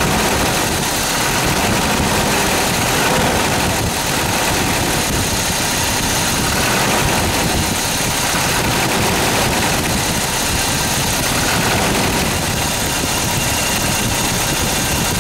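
Toyota 22RE fuel-injected 2.4-litre four-cylinder engine idling steadily with a rattling noise, which the owner fears may be a "death rattle".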